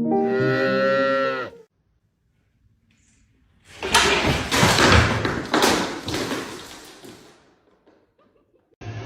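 A loud, rough animal call lasting about four seconds and fading out. It is preceded by the end of a piece of music and a short silence.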